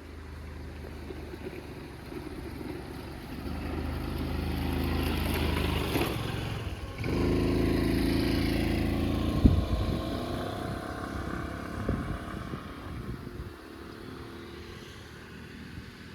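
A motor vehicle's engine running, growing louder toward the middle with a brief break near seven seconds, then fading away.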